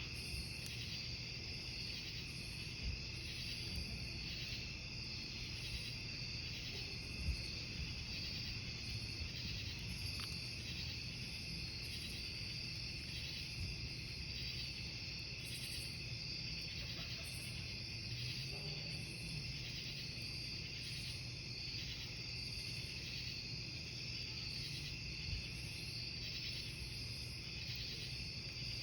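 Crickets chirping in a steady, pulsing chorus over a wood campfire burning, with a few pops from the fire, the loudest about seven seconds in.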